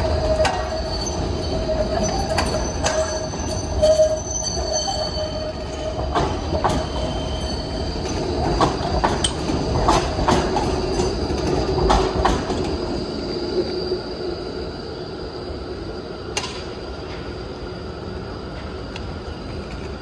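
Train running along a platform, its steel wheels squealing on the rails with a run of clicks over the rail joints. The noise eases after about fourteen seconds.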